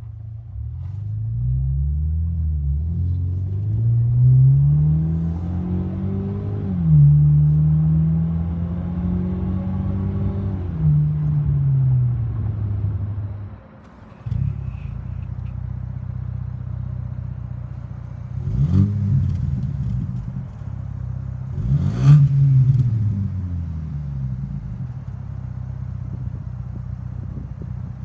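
Ford Maverick 2.0L turbocharged four-cylinder through an MRT Street Performance straight-through stainless exhaust. It is first heard from inside the cab at full acceleration, climbing in pitch with two upshifts. After a break about halfway through, the engine is started, idles and is blipped up in three short revs.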